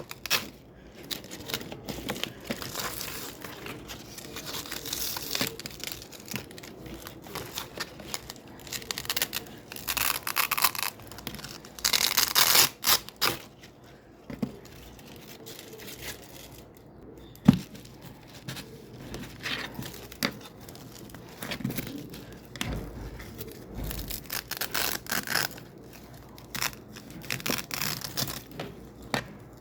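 Hook-and-loop (Velcro) strips being repeatedly pulled apart and pressed back together: a run of crackling, tearing rips of varying length, loudest about ten to thirteen seconds in, with one sharp click about seventeen seconds in.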